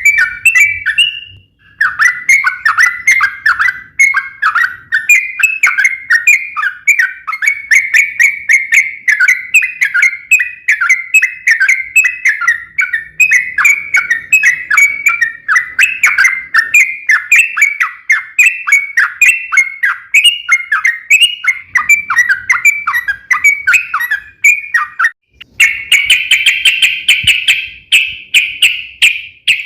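Yellow-vented bulbul (trucukan) singing a long, unbroken chattering song of quick, varied notes, pausing briefly twice. Near the end it shifts to a denser, steadier trill.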